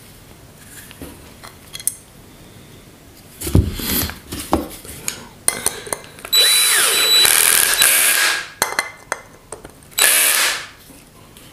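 Cordless drill-driver driving screws in two runs, a longer one of about two seconds and then a short one, each with a motor whine. It is set to a low torque setting so as not to strip the threads. Before the runs there are clicks of parts and tools being handled.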